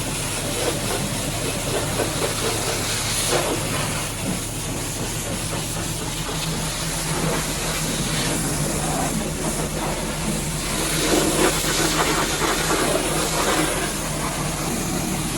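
High-pressure washer jet hissing as it sprays the truck, rising and falling as the spray moves, over a steady low motor hum.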